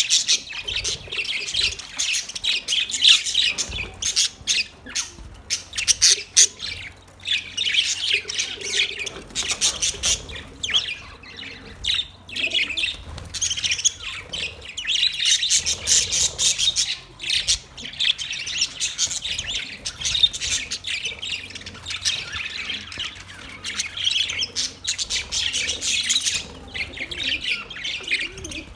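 Birds chirping, a dense chatter of many short calls overlapping one another without a break.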